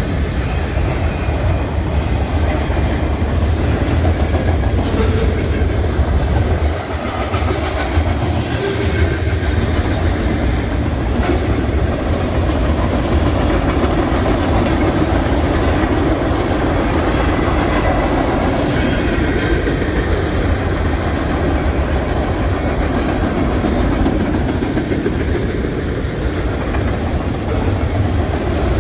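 Freight cars of a passing CN mixed freight train (flatcars, tank cars and centerbeam lumber cars) rolling by on steel wheels: a steady, continuous rolling noise with some clickety-clack from the rails.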